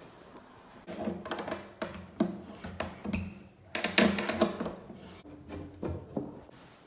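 Irregular knocks and clanks, several with a short ringing tone, loudest about four seconds in.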